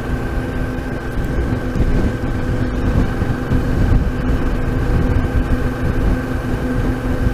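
Motorcycle cruising at a steady speed: engine drone holding one pitch, over a low rumble of wind and road noise.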